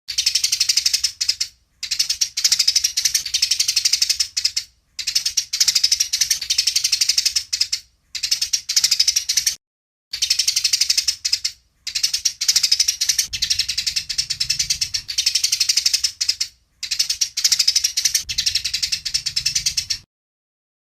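Eurasian tree sparrows chattering as they fight: fast runs of harsh, high chirps in seven bouts of one to three seconds, each cut off by a short silent break.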